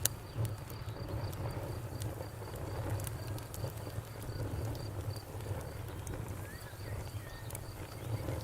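Campfire crackling, with scattered sharp pops and snaps over a steady low rumble of burning wood. A faint, evenly pulsed high chirping runs through it.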